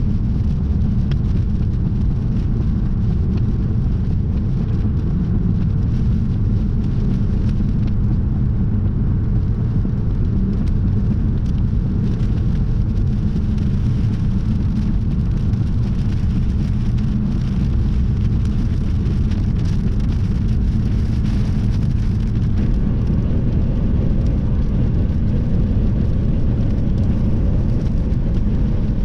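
Strong storm wind buffeting the microphone: a loud, steady low rumble, with rain ticking faintly through it.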